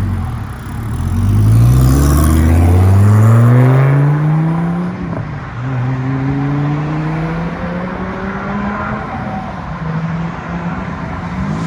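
Dodge Viper TA 1.0's V10 accelerating hard away, its pitch climbing steadily through the first gear, then an upshift about five seconds in and a second, gentler pull that levels off into steady cruising.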